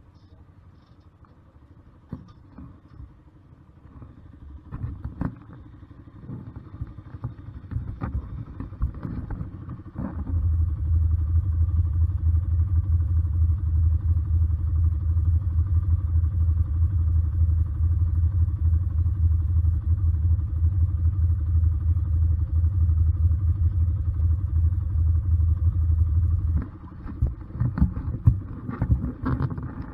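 Honda CBR125R single-cylinder motorcycle on the move. Scattered knocks and clatter come first. About a third of the way in, a loud, steady low rumble sets in and holds until it drops away suddenly near the end, leaving more knocks.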